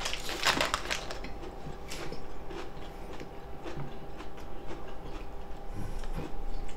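People chewing food with full mouths close to the microphone: soft wet smacks and mouth clicks, most dense about half a second in.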